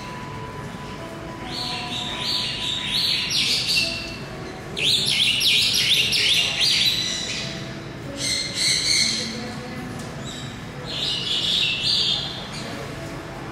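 Birds chirping in several bursts of quick, high, falling notes, the loudest burst in the middle.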